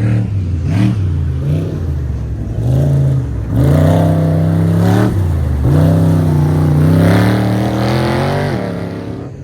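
Off-road racing car's engine revving hard under acceleration, its pitch climbing, dropping sharply at gear changes about three and a half and five and a half seconds in, then falling and fading near the end.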